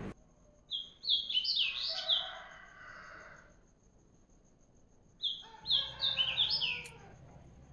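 A songbird singing two short phrases of quick, clear chirping notes, about four seconds apart.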